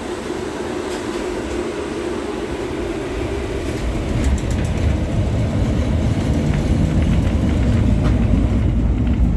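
LVS-86K articulated tram running, heard from inside the passenger saloon: a low rumble that grows louder about four seconds in, with a few light clicks as it does.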